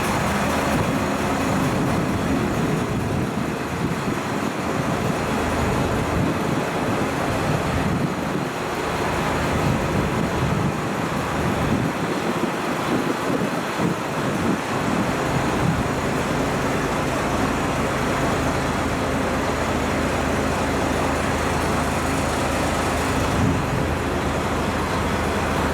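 Diesel railcar engine idling with a steady low hum, mixed with general station noise.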